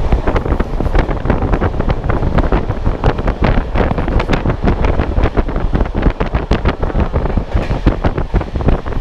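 Loud, gusty wind buffeting a camera microphone on a moving train, with a deep rumble and irregular crackling throughout.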